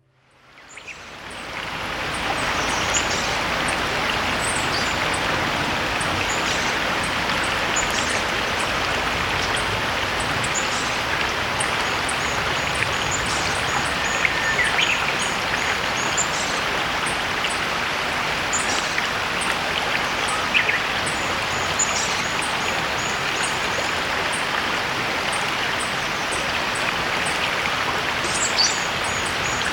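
Steady babbling of a shallow stream, fading in over the first two seconds, with small birds chirping high and often over it.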